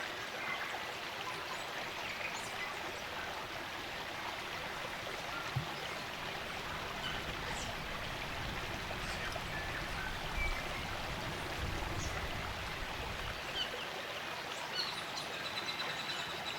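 Spring-fed stream running steadily, with faint scattered bird chirps. A low rumble comes in for several seconds in the middle.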